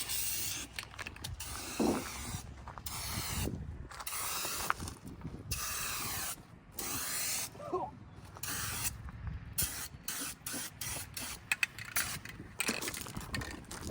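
Aerosol spray paint can hissing in on-and-off bursts as paint is sprayed onto a truck's body: several long sprays of a second or more, then a quick run of short bursts past the middle.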